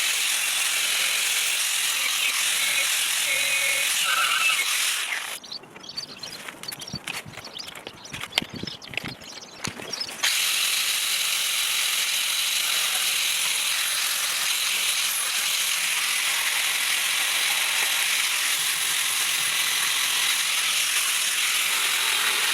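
Angle grinder grinding back welds on a steel vehicle chassis. The grinding runs steadily, stops about five seconds in, and cuts back in at full level about ten seconds in.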